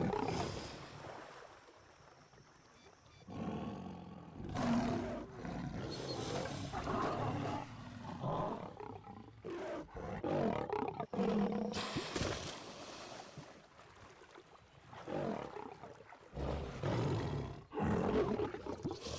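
Lions growling and roaring in a run of bursts, with a lull about two seconds in.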